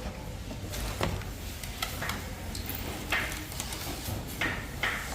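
Scattered clicks, knocks and short rustles of objects being handled during food preparation, over a steady low background rumble.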